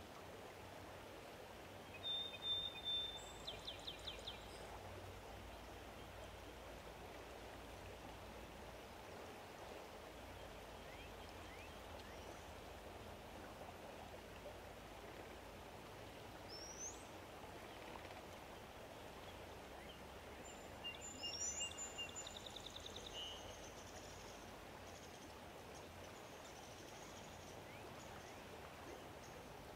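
A songbird singing twice over a steady outdoor hiss. Each phrase is a clear high note followed by a fast trill, the first about two seconds in and the second about twenty seconds in, with a couple of short rising chirps in between.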